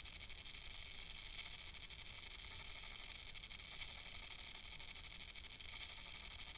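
Faint steady hiss with a low rumble underneath, and no distinct call, drumming or knock standing out.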